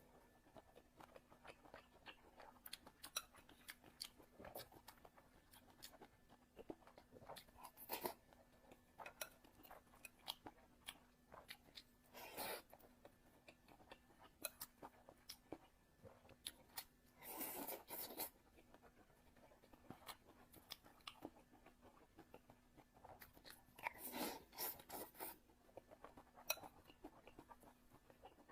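Close-up eating sounds: a person chewing with moist mouth clicks and smacks, and a few louder bites and crunches at intervals.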